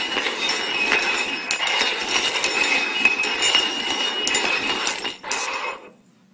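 Cups being slid and shuffled over a hard surface, a continuous scraping clatter with small clinks, stopping about six seconds in.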